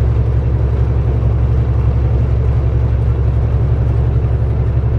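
Kenworth T660 semi truck running down the road, its diesel engine giving a low, steady drone.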